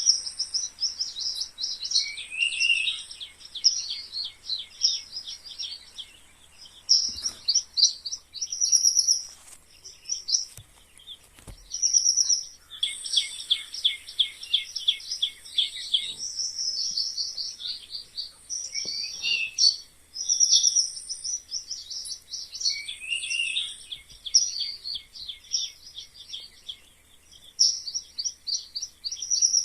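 Mice squeaking: runs of rapid, high-pitched squeaks a few seconds long, broken by short pauses.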